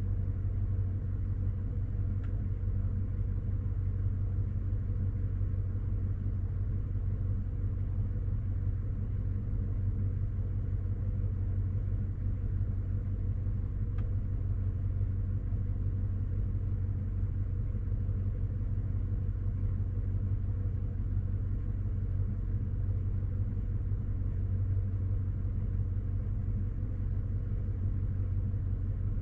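Chevy Silverado's 5.3-litre V8 idling steadily as it warms up after a cold start, a constant low hum.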